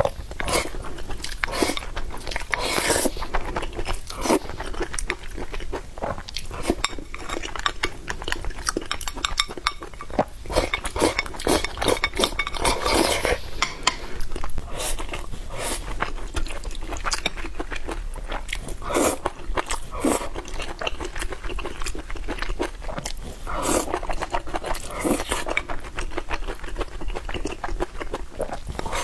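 Close-miked eating: chewing and biting food, with utensils clinking against dishes.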